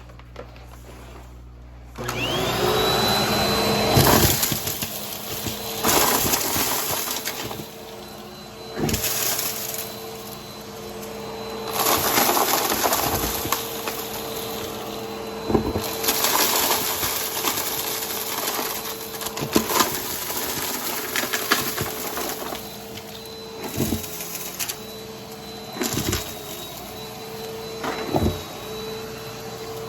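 A vacuum cleaner switched on about two seconds in, its motor whining up to a steady pitch. It then runs while sucking up a mess of dry crunchy debris, with repeated sharp crackles and crunches as pieces are picked up.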